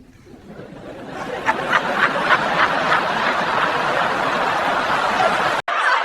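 A crowd laughing, swelling over the first second or two and then holding steady, cut off for an instant near the end.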